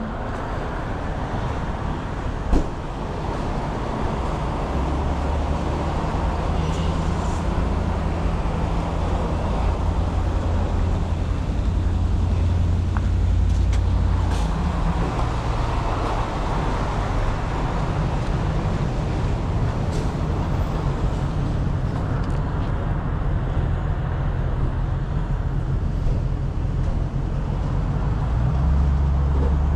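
Pickup truck under way: a steady engine drone with road and tyre noise, the engine note shifting a few times as speed changes. A single click comes a couple of seconds in.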